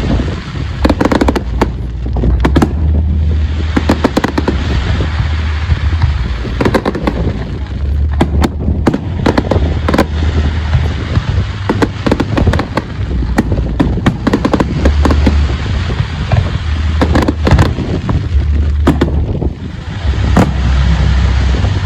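Fireworks display going off: a dense, continuous run of sharp bangs and crackles over a steady low rumble.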